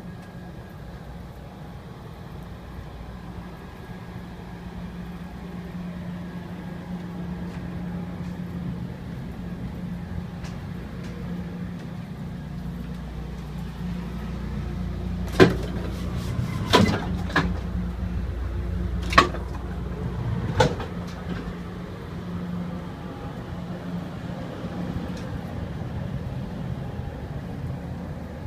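Steady low hum inside a double-decker Pacific Surfliner passenger car. About halfway through, a handful of sharp knocks and clunks come over a few seconds.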